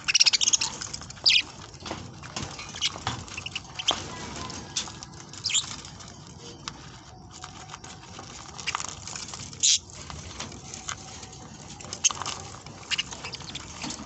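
A flock of budgerigars chirping and chattering in short, sharp calls at irregular moments, with scratchy patter beneath; the loudest calls come about a second in and near ten seconds in.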